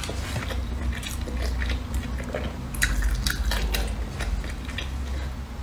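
Close-miked chewing and wet mouth sounds of someone eating a soft steamed dumpling, with scattered sharp clicks and a denser run of them about three seconds in, over a low steady hum.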